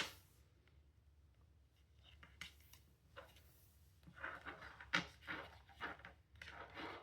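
Soft, irregular taps and scrapes: small handling noises that come thicker from about four seconds in.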